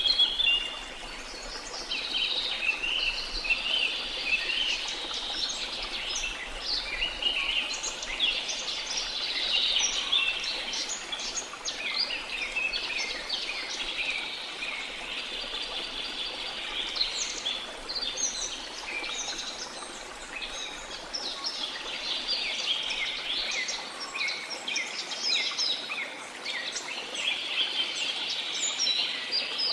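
Many birds chirping and trilling at once in a dense, continuous chorus, over a faint steady rush of a jungle waterfall.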